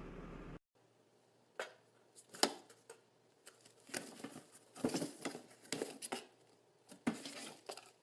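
A steady hum cuts off about half a second in. It is followed by irregular light rustling, crinkling and clicking sounds in a small room, a few louder clicks among them.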